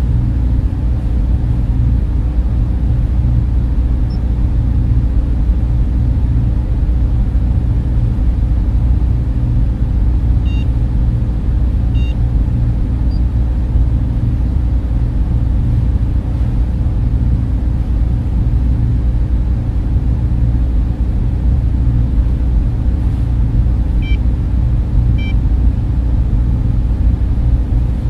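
Server room ambience: a steady, dense rumble of cooling fans with most of its weight low down. Two pairs of faint short electronic beeps come through it, one pair a little over a third of the way in and another near the end.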